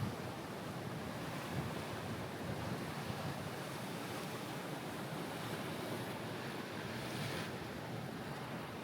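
Sea waves washing on the shore, with wind on the microphones. A brighter hiss rises for about a second and a half around six seconds in.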